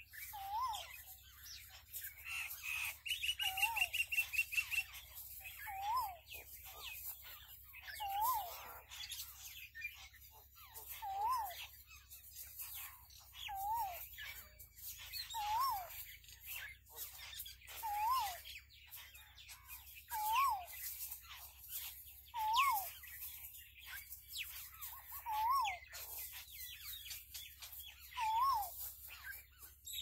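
Birds calling outdoors: one bird repeats a low whistled note that rises then falls, about once every two seconds. A rapid run of higher chirps comes about two to five seconds in, and other short high chirps are scattered through.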